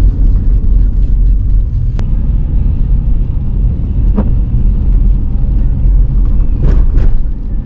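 Steady low rumble of a car's engine and tyres on the road, heard from inside the cabin while driving, with a single sharp click about two seconds in.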